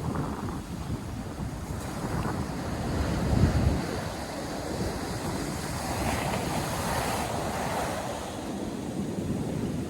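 North Sea surf washing onto the beach, with wind buffeting the microphone. The wind is strongest about three and a half seconds in, and a wave washes in from about six to eight seconds.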